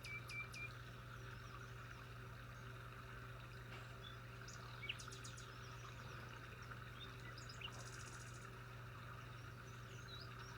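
Faint birdsong: a quick run of repeated chirps at the start, scattered single calls, a short high buzzy trill about two-thirds of the way through, and more chirps at the end. A steady low hum and a soft hiss run underneath.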